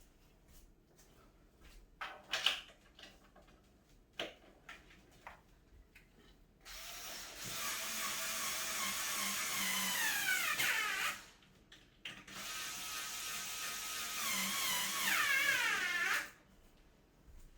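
A few handling knocks, then a power drill/driver running twice for about four seconds each, driving screws into the cat tower panels. Its pitch falls near the end of each run as the screw seats and the motor comes under load.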